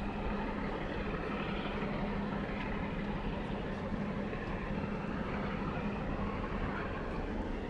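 Steady engine rumble with a low droning hum that eases off about seven seconds in.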